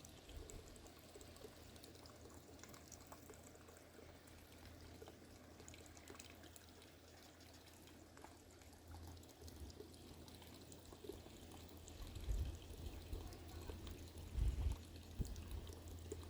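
A small stream trickling and flowing steadily. Low rumbling thuds come in a few seconds before the end.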